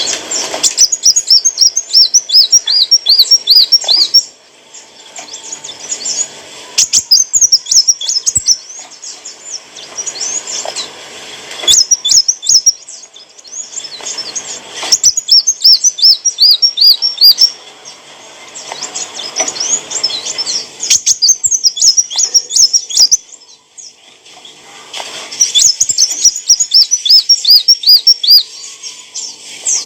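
A sunbird, the 'kolibri wulung' of Indonesian bird-keepers, singing rapid runs of high, thin chirping notes in phrases a few seconds long, with short pauses between them.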